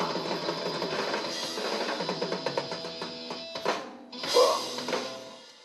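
Live rock band closing a song: drums and cymbals pounding out the final bars, a short break, then one last loud hit with the band about four and a half seconds in that rings out and fades away.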